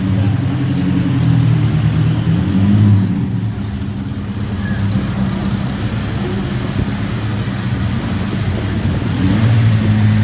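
Classic car engine running at idle, with a brief lift in revs about three seconds in; it fades somewhat in the middle and comes back up near the end.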